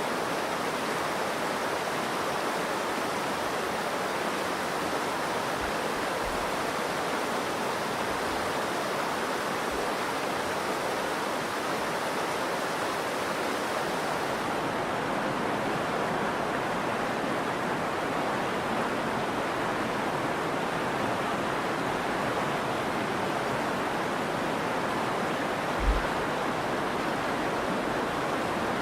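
Steady rush of the Virgin River's flowing water. A few soft low thumps and one sharper low thump near the end.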